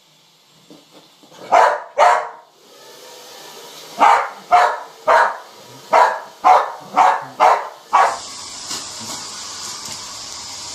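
Dog barking: two barks, a pause, then a quick run of about eight. Near the end the steady hiss of a pet hair dryer comes up.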